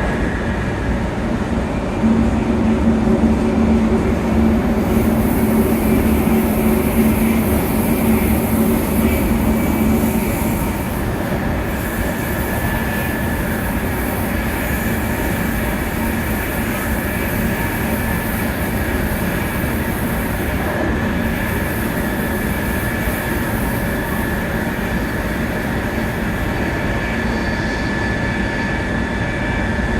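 Onboard running noise of a 700 series Shinkansen: a steady rumble of wheels and air. A low hum is louder between about two and ten seconds in, and a thin, steady high whine sets in about eleven seconds in.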